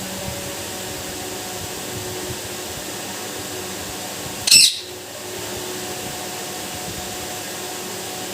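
A steady hiss with a faint hum runs throughout. About four and a half seconds in, a parrot gives one short, loud, shrill squawk.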